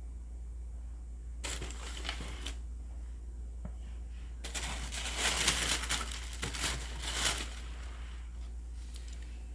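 Packaging crinkling and rustling as it is handled: a short burst about one and a half seconds in, then a longer, louder stretch from about four and a half seconds in, over a steady low hum.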